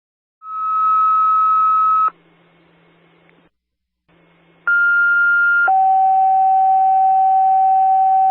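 Two-tone sequential paging tones over a dispatch radio channel: a steady high tone for about a second and a half, then after a pause a short high tone that steps down to a long lower tone, with faint radio hiss and hum between them. This is a tone-out alerting fire and EMS crews to a call.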